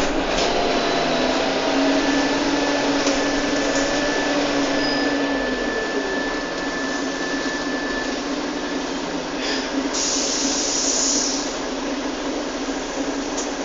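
Mercedes-Benz Citaro G C2 articulated diesel bus on the move: a steady running noise with drivetrain whines that glide up and down in pitch during the first half, and a short hiss about ten seconds in.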